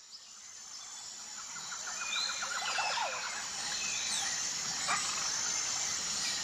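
Outdoor bird chorus: several birds chirping and calling over a steady high-pitched hiss, fading in over the first two seconds. A quick run of rapid notes comes about a second in.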